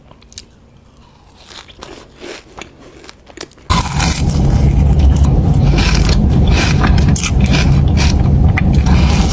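Close-miked biting and chewing of a Dubai chewy cookie, whose pistachio-kataifi filling gives scattered sharp crunches. About three and a half seconds in, the sound jumps abruptly to much louder, dense crunching with a heavy low rumble.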